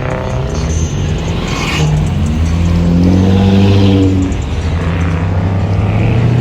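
A car engine revving: the pitch climbs for about two seconds, drops off, then the engine settles back to a steady lower note.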